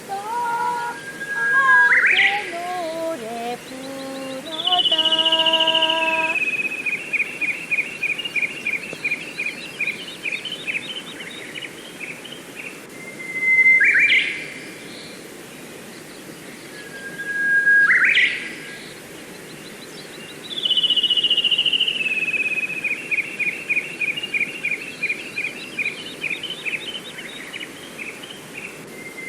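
Songbird calls from a recorded birdsong track: a short whistled note ending in a quick upward sweep, and a long run of rapid chirps that steps down in pitch. The same phrases come back about every 16 seconds. A short descending melody plays over the first few seconds.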